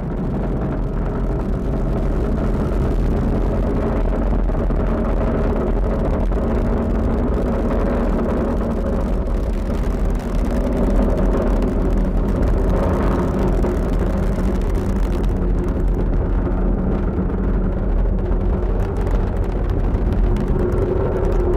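Falcon 9 first stage's nine Merlin 1D engines during powered ascent: a steady, loud rocket rumble.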